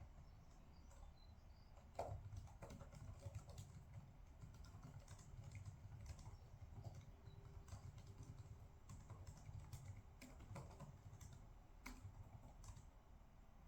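Faint typing on a computer keyboard: irregular, scattered key clicks, with a slightly louder knock about two seconds in, over a low steady room hum.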